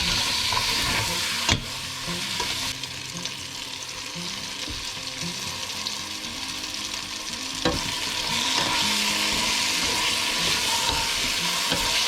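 Onion-tomato masala with spices frying in oil in a pan, sizzling steadily as it is stirred, with a couple of sharp knocks about a second and a half in and near eight seconds.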